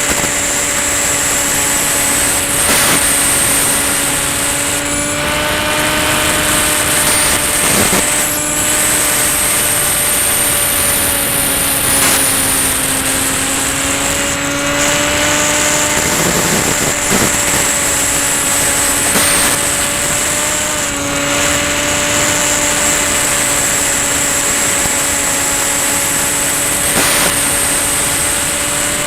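Electric motor and propeller of a Ranger EX RC plane running steadily in flight, heard from on board, with a high whine above it. The pitch drifts slightly up and down with throttle.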